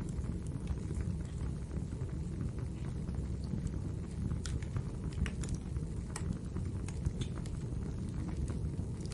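Wood fire burning in a fireplace: a steady low rumble of the flames with irregular sharp crackles and pops from the burning logs, a cluster of louder pops around the middle.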